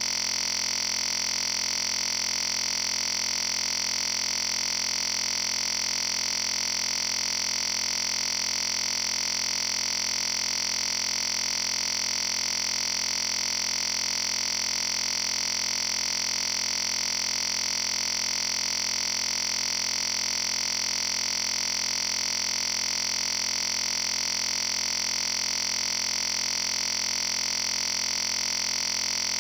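Steady electronic hiss with a high whine over several fainter steady tones, never changing in level.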